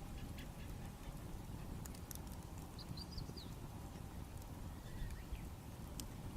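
Wood bonfire crackling, with scattered sharp pops over a low steady rumble. A small bird sings a short, high, chirping phrase in the middle.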